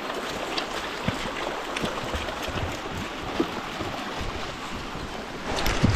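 Stream water running steadily, with scattered light knocks and a louder bump near the end.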